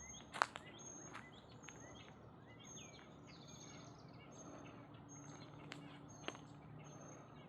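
Birds chirping and singing outdoors, with one thin high note repeated over and over among quicker short chirps. A sharp click sounds shortly after the start and a smaller one near the end.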